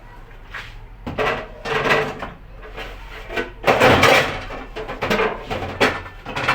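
Clatter of fridge parts being handled during cleaning: a string of knocks and scrapes, the longest and loudest about four seconds in.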